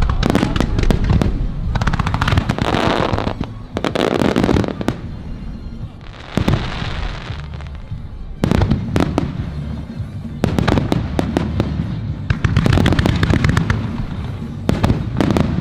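Fireworks grand-finale barrage: shells bursting in quick succession, sharp bangs over a continuous low rumble, with several stretches of dense crackling from crackle-effect shells in between.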